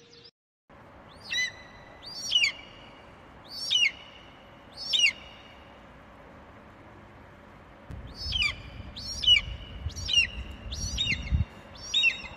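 A songbird singing repeated downward-sweeping calls. Four calls come evenly spaced in the first half, and a quicker run of about six follows from about eight seconds in. A low rumble sits under the later run.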